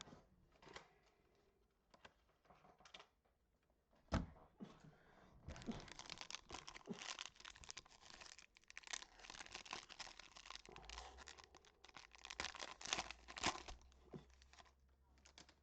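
Wrapping on trading card packs or boxes being torn open and crinkled, a dense crackling run lasting several seconds, after a single sharp knock about four seconds in.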